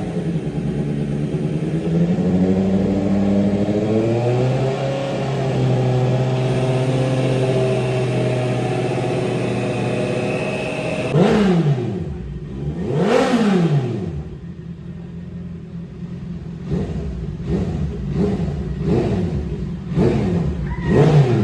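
2025 Honda CBR650R inline-four running through an aftermarket IXIL RC3B full exhaust system. It holds a steady engine note for about ten seconds, then is revved sharply twice and falls back. Near the end comes a quick series of short throttle blips.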